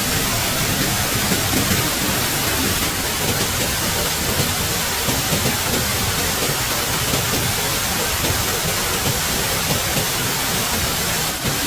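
Steady, even rushing of water, such as heavy rain or a fast-flowing river.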